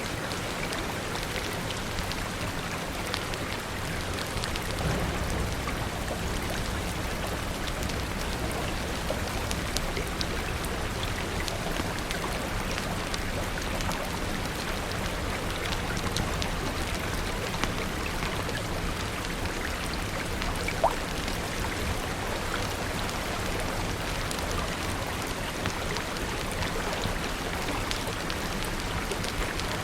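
Steady rain falling, with scattered sharp clicks and a low rumble underneath; one louder click about two-thirds of the way through.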